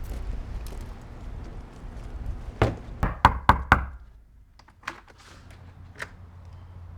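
Knocking on a door: about five quick raps, about two and a half seconds in, followed by a couple of faint clicks.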